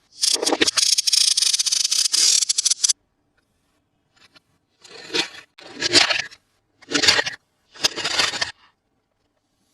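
Toy packaging being opened by hand: about three seconds of continuous scraping and tearing, then four short scraping rustles about a second apart.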